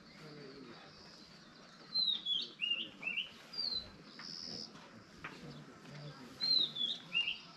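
A songbird singing a short phrase of quick chirps, twice: about two seconds in and again near the end, with a short, high, steady note in between.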